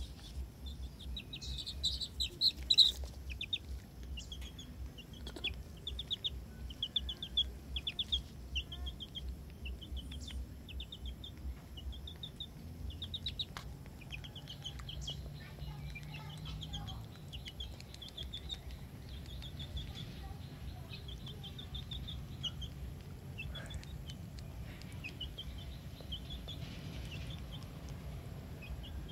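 A bird calling over and over in short high chirps, about two to three a second, with a few louder clicks about two to three seconds in.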